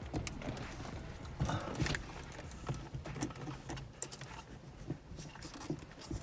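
Scattered light clicks and taps of small plastic mirror-mount parts being handled and fitted.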